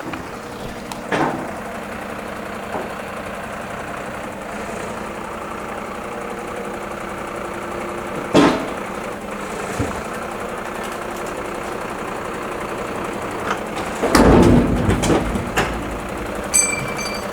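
Heavy vehicle diesel engine idling steadily, with a few sharp knocks and clanks and a louder run of them about 14 seconds in. A repeating electronic beep starts near the end.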